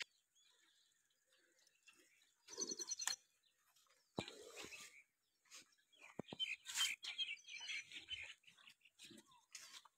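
Small birds chirping in short quick bursts, about two and a half seconds in and again around six to eight seconds, with faint rustles and a few knocks in between.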